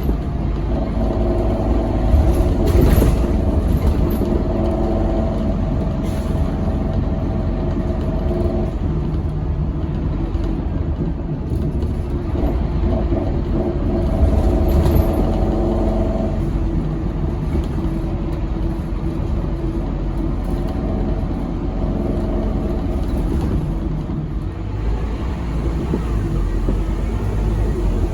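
Scania K270UB6 bus's five-cylinder diesel engine running, with a steady low rumble and a higher whining tone that comes in and fades out three times.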